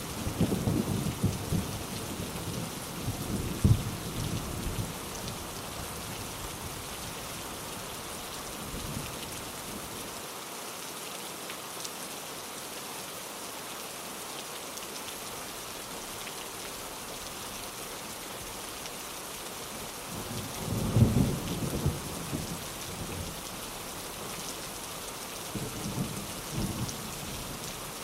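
Steady rain falling, with thunder: a rumble fading over the first few seconds, a louder thunderclap with rumble about three quarters of the way through, and a fainter rumble near the end.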